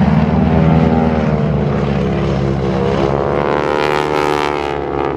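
Propeller aircraft engine droning as the plane flies past, its pitch bending during the pass.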